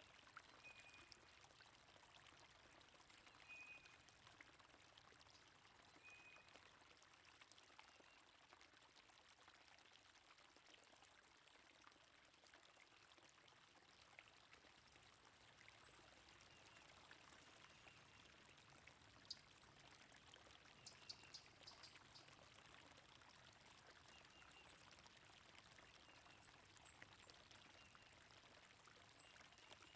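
Faint, steady flowing stream water, with short high bird chirps scattered through it and a brief quick run of ticks a little past the middle.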